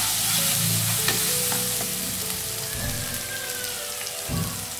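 Onion, tomato and green chilli masala sizzling in hot oil in a nonstick kadhai, with a wooden spatula stirring it and clicking against the pan. The sizzle grows gradually quieter toward the end.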